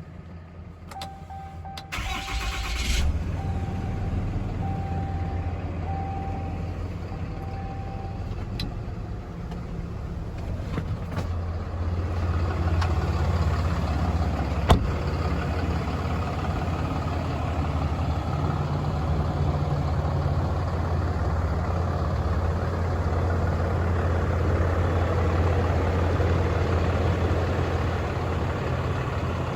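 The Cummins 6.7L turbo-diesel inline-six of a 2021 Ram 5500HD is cranked and starts about two seconds in, then idles steadily. A dashboard warning chime beeps repeatedly for the first several seconds, and there is a single sharp click about halfway through.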